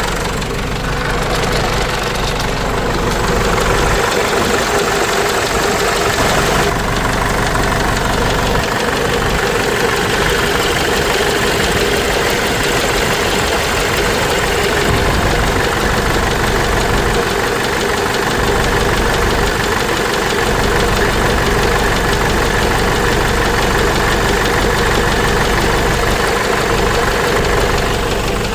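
Cummins 4BT four-cylinder diesel engine of a Case 586E forklift running steadily on a test run after its teardown and rebuild for a knocking sound.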